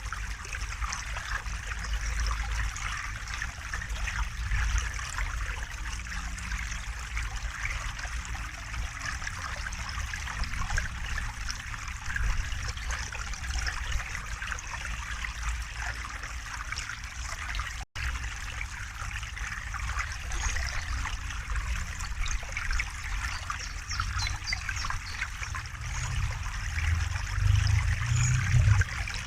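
River water flowing and trickling steadily, with a low rumble underneath. About two-thirds of the way through, the sound drops out for an instant, and near the end the low rumble grows louder.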